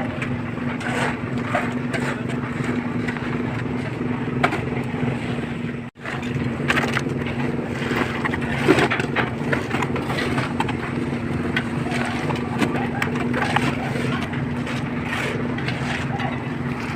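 Small concrete mixer's engine running steadily, with scattered scrapes and knocks over it. The sound cuts out for an instant about six seconds in.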